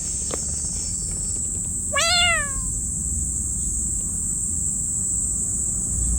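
A stray cat gives a single meow about two seconds in, its pitch rising and then falling.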